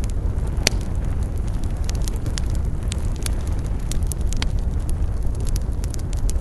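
Wood campfire burning, with frequent sharp crackles and pops over a steady low rumble; one louder pop comes under a second in.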